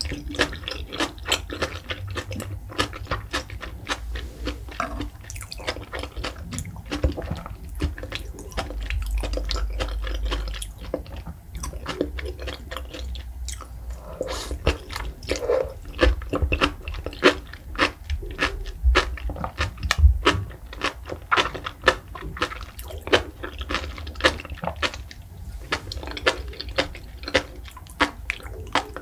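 Close-miked chewing of sea grapes in a creamy white sauce: a dense, irregular run of small pops and wet clicks from the mouth as the little beads burst.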